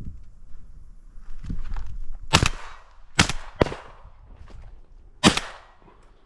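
Four shotgun shots fired at a flying wood pigeon, each a sharp crack with a short echoing tail. The second and third come close together and the last follows after a gap of nearly two seconds.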